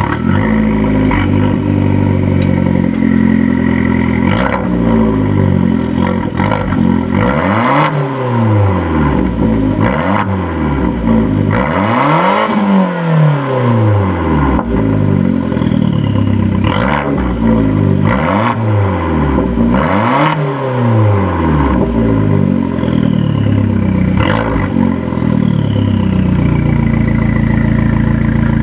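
Stationary 2013 Fiat 500 Abarth's turbocharged 1.4-litre four-cylinder, on its stock exhaust, idling and then blipped several times, the revs rising and falling quickly before it settles back to idle near the end. After some blips a faint turbo whistle falls away in pitch.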